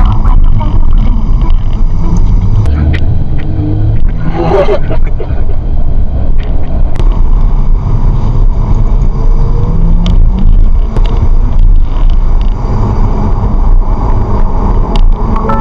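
Car driving on the road, heard from inside through a dashcam: a steady, loud low rumble of engine and tyre noise.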